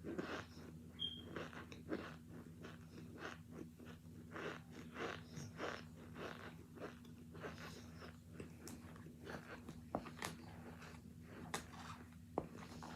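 Close-up biting, crunching and chewing of hard, chalky chunks of cornstarch and baby powder, with irregular crunches several times a second and a few sharper cracks in the second half.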